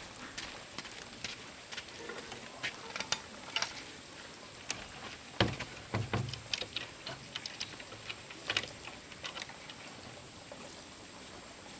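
Irregular light clicks and taps, with a couple of duller knocks about halfway through.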